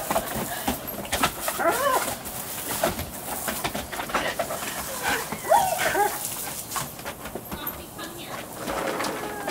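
Excited dog giving short yelps and whines as it chases and jumps at a hose's water stream, over the steady hiss of the spray, with two clearer yelps about two seconds in and again past the middle.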